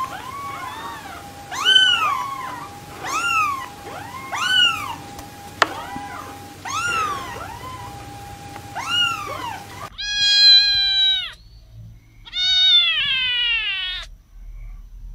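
Very young tabby kittens mewing: a run of short, high mews that rise and fall, louder ones alternating with fainter ones about once a second. About ten seconds in, a grey fold-eared kitten takes over with two longer, louder meows that fall in pitch.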